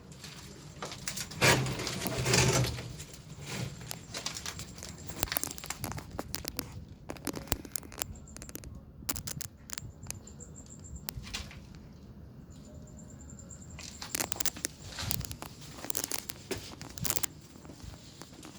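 Irregular rustling and crackling with scattered sharp clicks, louder for a moment about two seconds in.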